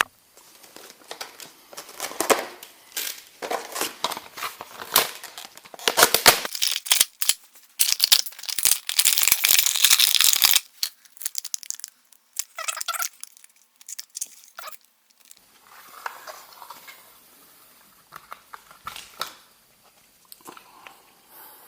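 Magnetic tape and its packaging being handled and laid out: crinkling, tearing and rustling with many sharp clicks. It is busiest in the first half, with about two seconds of continuous tearing near the middle, and thins to sparse, quieter rustles and taps afterwards.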